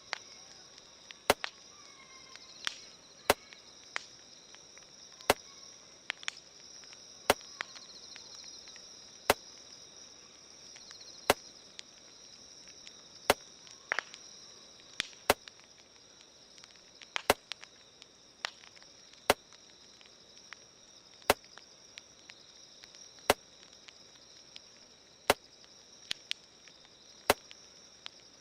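Campfire crackling: sharp pops about every two seconds, with a few smaller irregular ones in between, over a steady high chirring of insects.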